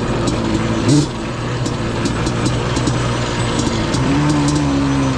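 Yamaha Banshee ATV's two-stroke parallel-twin engine running steadily while being ridden. It gives a quick blip about a second in and holds a slightly higher pitch near the end.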